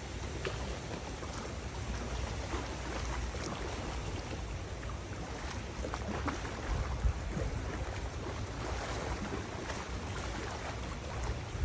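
Wind gusting over the microphone with a low rumble, over a steady rush of river water.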